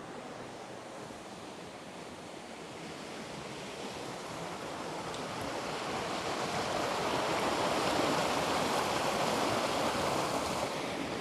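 Wind rushing through the forest canopy in a gust that swells over several seconds and then dies down near the end.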